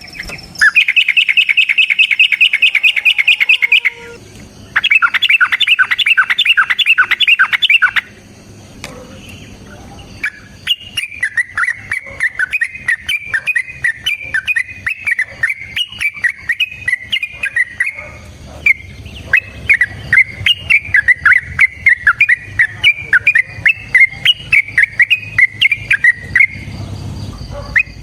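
Yellow-vented bulbul (trucukan) singing loudly: two fast rattling runs of notes lasting about three seconds each, then, after a short pause, a long run of bubbling, chattering song broken into many sharp notes.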